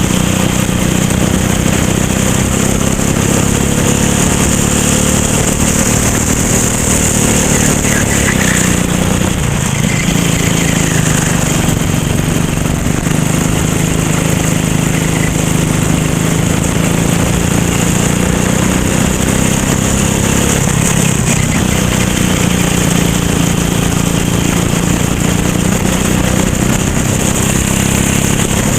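Racing kart engine running hard, its pitch dipping and climbing back twice, about a third and two-thirds of the way through, as it slows for corners and accelerates out.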